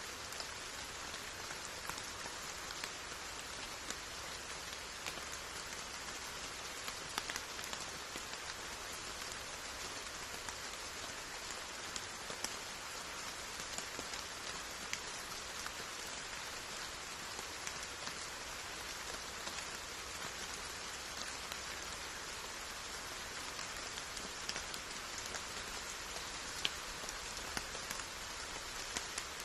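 Steady rain falling, an even hiss scattered with the sharper ticks of single drops landing close by.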